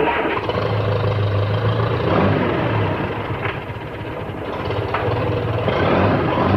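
Farm tractor engine coming in suddenly and running steadily with a low hum, easing off about halfway through and picking up again near the end.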